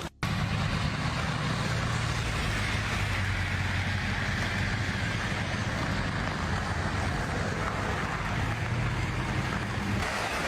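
A motor running steadily with a low, even hum over a continuous rushing noise.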